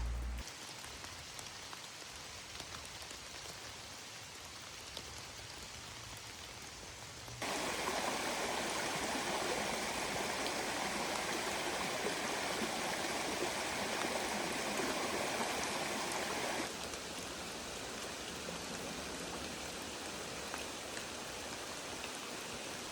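Steady rushing of rain and running water, with no rhythm or tone. It gets suddenly louder about seven seconds in and drops back a little near seventeen seconds in.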